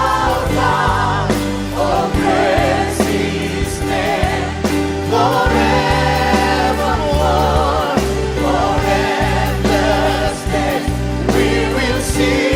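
Church worship band playing a praise song with singers; sung notes with vibrato over steady bass and keyboard chords.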